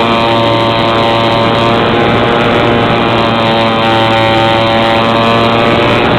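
A small engine or motor running steadily at constant speed: a steady pitched drone with many overtones.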